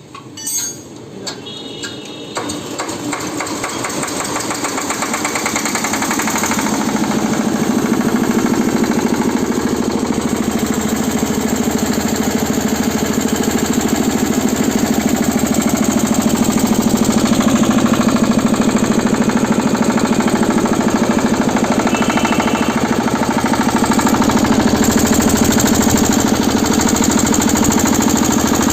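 Engine-driven No. 6 rice huller (paddy dehusking machine) starting up. The engine and huller come up to speed over the first several seconds, then run steadily and loudly with a fast, even beat.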